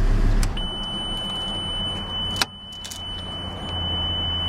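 The Lamborghini Gallardo LP570-4 Superleggera's V10 engine running, then cutting off about half a second in as it is shut down. A steady high electronic warning tone then sounds without a break, with a sharp click a couple of seconds in and a low hum coming back near the end.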